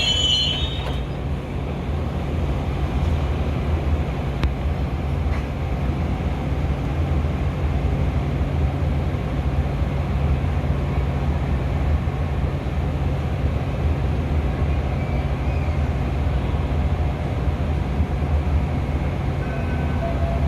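Metra commuter train with a steady low rumble and deep hum. High-pitched wheel squeal fades out about a second in.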